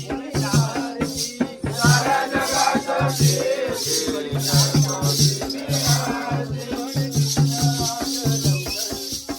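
Jakhadi folk music: a drum keeps a steady, quick beat under rattling jingles, with a man's singing voice coming in and out.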